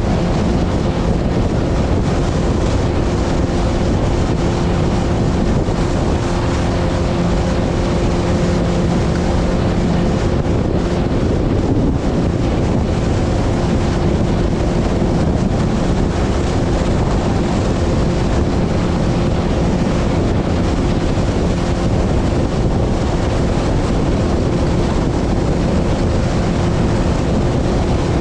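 Motorboat engine running at a steady pitch, with strong wind buffeting the microphone.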